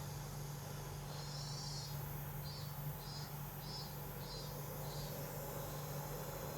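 Cicadas singing: a steady high buzz, with one call pulsing about two and a half times a second for a few seconds midway, over a low steady hum.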